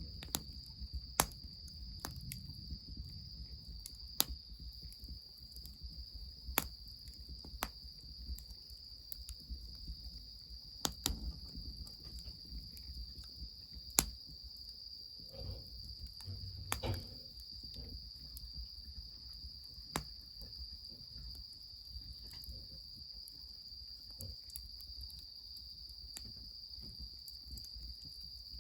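Wood fire crackling, with scattered sharp pops every few seconds over a low steady rush, under a continuous high-pitched chorus of crickets.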